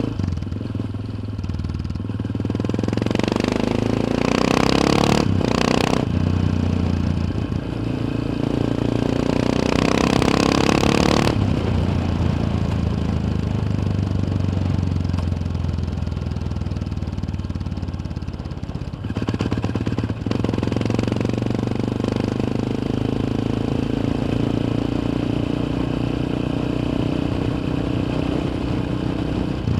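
Yamaha XT 600 single-cylinder four-stroke engine heard from the bike while riding. It revs up in two climbs with a brief drop about five seconds in, and another about eleven seconds in, as it shifts. It then runs fairly steady, with one more short dip a little before the twentieth second.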